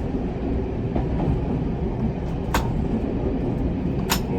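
Single-car diesel railcar coasting in fourth gear with the power off, heard from inside the cab as a steady low rumble. Two sharp clicks come through, the first about halfway and the second near the end.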